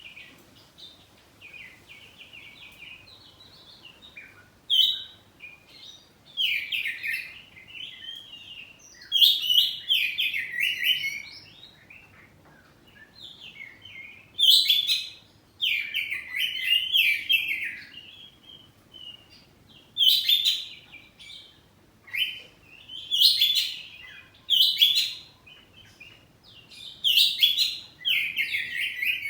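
Oriental magpie-robin (kacer poci) singing loud, varied whistled phrases mixed with sharp clicks, in bursts every few seconds with short pauses between.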